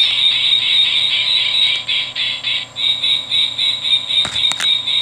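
Recorded peregrine falcon call played from a plush toy bird's built-in sound box: a steady run of rapid repeated notes, about five a second. There are a couple of clicks about four seconds in.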